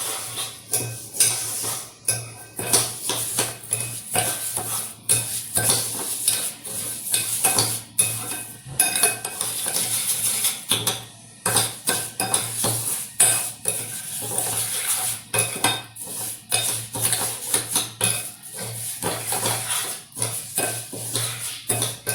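A spoon scraping and clinking against a bowl as it stirs a thick mixture of instant coffee, sugar and a little water, in quick, irregular strokes.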